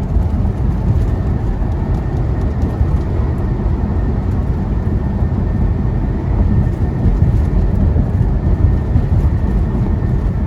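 Semi truck cab interior while driving: a steady low rumble of the diesel engine and road noise, with a faint steady whine above it.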